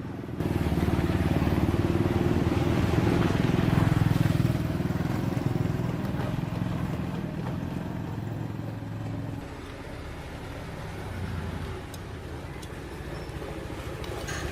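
Two-stroke chainsaw engine running, likely the freshly repaired saw being test-run: it comes up loud about half a second in, then drops back to a quieter, slower idle about nine and a half seconds in.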